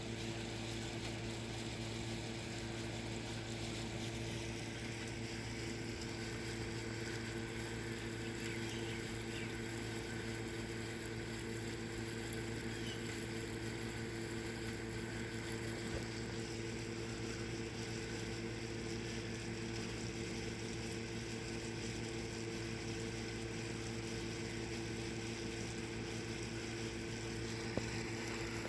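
A steady low mechanical hum with an even hiss over it, unchanging in level. There is one faint tick near the end.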